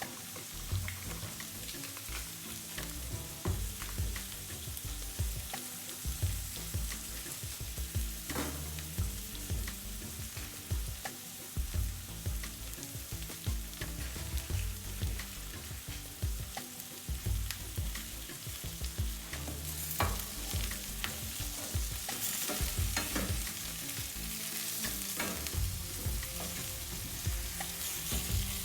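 Food sizzling in a hot pan, with a utensil clicking and scraping against the pan now and then. The sizzle gets louder about two-thirds of the way through.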